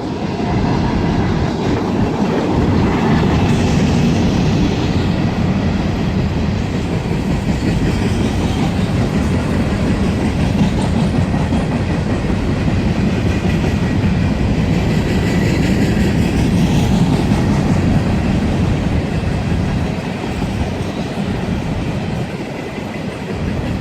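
Empty coal hopper cars of a freight train rolling past, their wheels running steadily over the rails with a clickety-clack over the joints.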